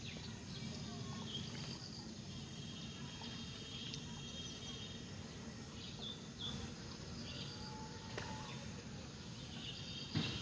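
Outdoor ambience: a steady low background rumble with small birds chirping now and then, including one short trill a few seconds in.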